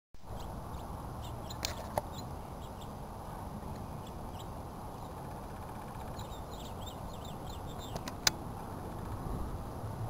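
Outdoor ambience: a steady low rumble with small birds chirping faintly in short notes, mostly through the middle, and a few sharp clicks, two close together about two seconds in and a louder one about eight seconds in.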